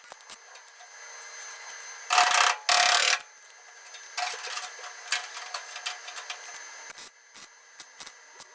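Short bursts of welding on sheet-metal body panels: two loud bursts about two seconds in, then a quieter, crackling stretch.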